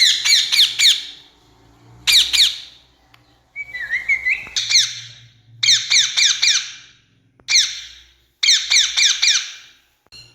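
Rose-ringed parakeet (Indian ringneck) giving shrill, harsh screeching calls in quick runs of several notes, the runs coming every second or so with short pauses between. A brief wavering whistle sounds about four seconds in.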